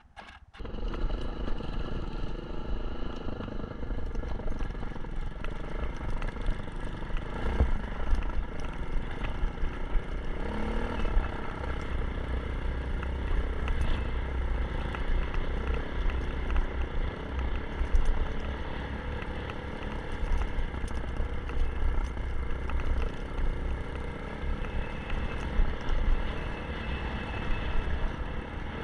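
Kawasaki KLX 150 dirt bike's single-cylinder four-stroke engine running steadily. It comes in about half a second in, after a brief quiet gap.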